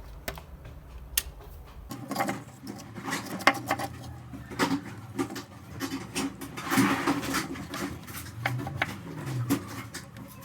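Clicks, taps and light clatter of tools and small parts being handled on a workbench, irregular and scattered throughout.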